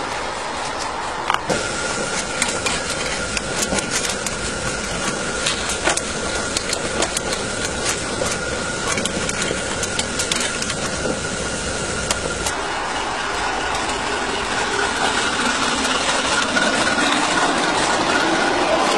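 Miniature coal-fired live steam locomotive running, a steady steam hiss mixed with rapid sharp clicks and rattles. The clicking stops about two thirds of the way in, leaving a smoother hiss.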